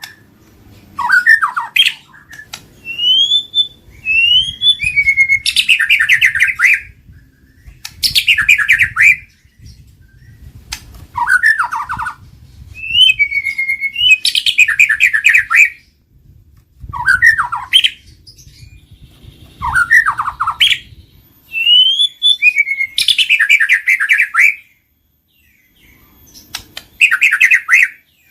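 White-rumped shama (murai batu) singing: about ten short phrases of rising whistles and fast rattling trills, each a second or two long, separated by brief pauses.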